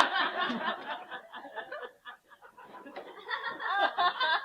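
Audience laughing at a comic line. The laughter fades about two seconds in, then swells again near the end.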